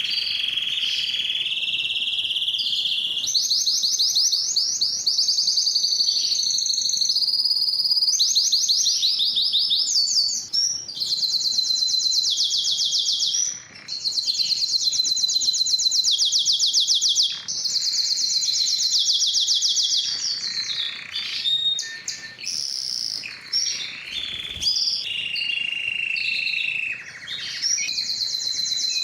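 Domestic canary singing a continuous song of rapid trills and rolling phrases, high-pitched, switching to a new trill every few seconds with only brief pauses.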